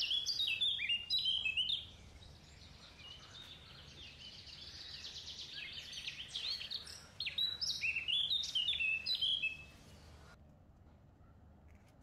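A small songbird singing: loud bursts of quick high chirps, a rapid trill in the middle, then more chirping phrases, cutting off suddenly about ten seconds in.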